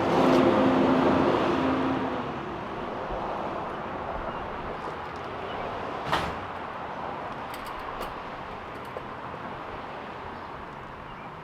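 A car engine on a start attempt: loud with a steady tone for about the first two seconds, then settling to a quieter, even running noise, with one sharp click about six seconds in.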